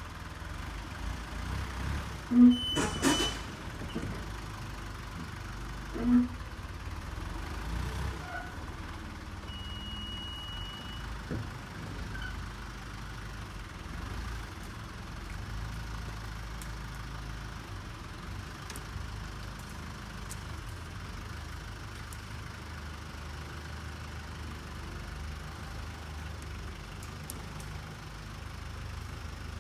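Tractor engine running steadily at a low, even pitch while it moves a heavy box-truck body. Two brief, louder sounds break in about two and a half seconds and six seconds in.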